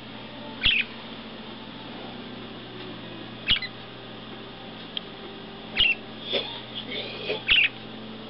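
Pet bird giving four short, sharp squawks spaced a couple of seconds apart, with a few softer chirps between the last two.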